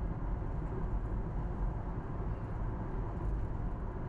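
Steady low road noise of a moving car.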